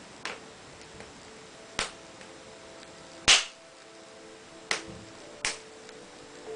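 Wood fire in a fireplace crackling, with five sharp pops about a second apart, the loudest near the middle, and a faint steady whistle underneath.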